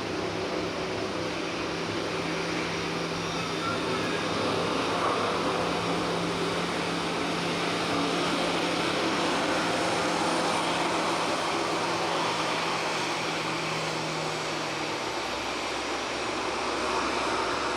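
An airliner's engines running, a steady broad rush with a low steady hum underneath that drops away about fifteen seconds in.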